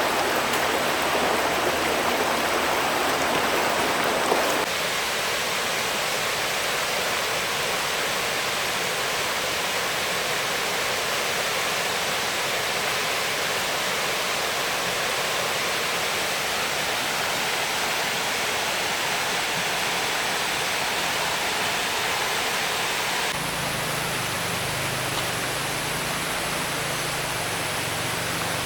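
Steady rush of flowing stream water, changing abruptly in tone twice. A low hum joins it near the end.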